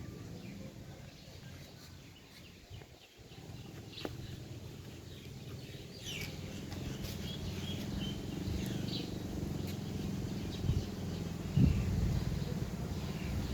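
Birds chirping in short, sharply falling calls, starting about halfway through, over a low steady background rumble. Two brief thumps come near the end.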